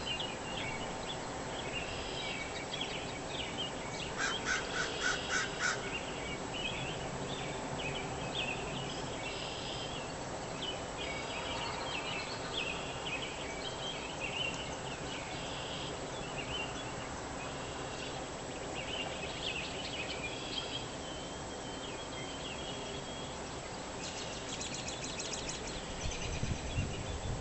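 Songbirds chirping and trilling in a dawn chorus of many overlapping short calls over a steady background hiss, with a rapid run of repeated notes about four seconds in and again near the end.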